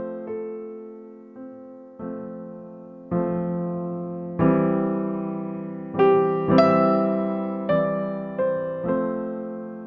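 Background music: slow electric piano chords, each struck and left to fade.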